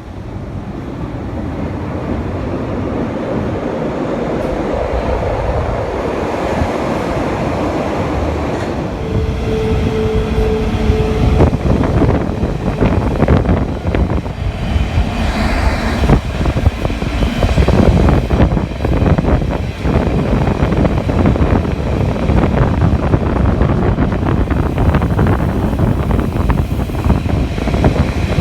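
Train approaching and passing close by: a rumble that builds over the first ten seconds, then wheels clattering over rail joints for the rest. A short steady tone sounds about nine seconds in.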